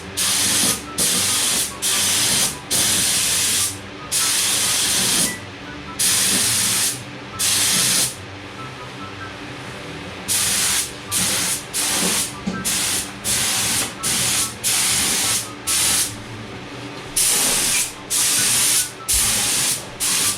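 Air spray gun with a 1.4 mm tip, set to about 25 psi, spraying epoxy primer in a string of short hissing bursts. Each burst lasts about half a second to a second and a half, with brief gaps between them as the trigger is pulled and released for each pass.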